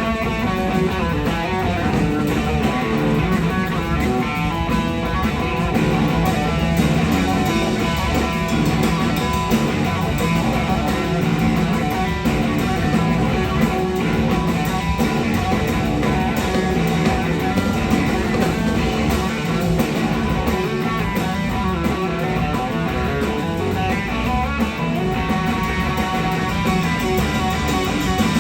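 Live blues-rock band playing, led by an electric slide guitar solo.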